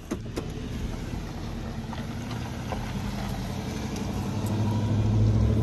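A car engine running with a steady hum that grows louder toward the end, with a couple of light knocks just after the start.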